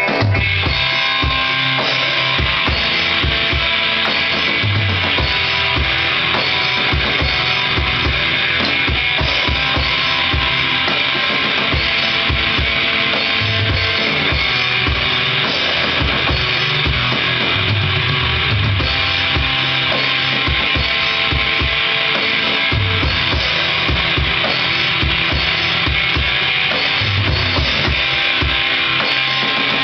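Drum kit and guitar jamming: the drums come in right at the start with kick drum and cymbals played continuously under the guitar.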